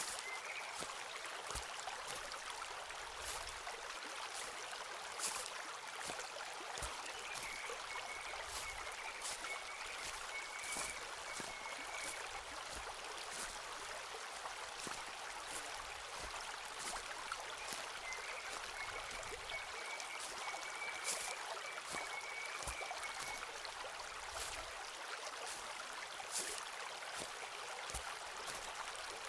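Footsteps walking along a forest path, scattered soft crunches and thuds, over a stream running steadily in the background. A thin high note comes in twice, for about five seconds each time.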